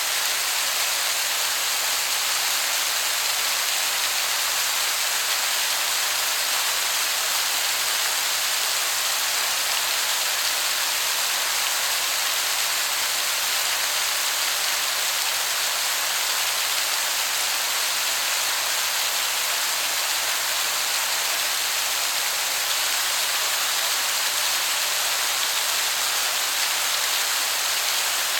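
Waterfall falling water, a steady even hiss of splashing that sounds like heavy rain.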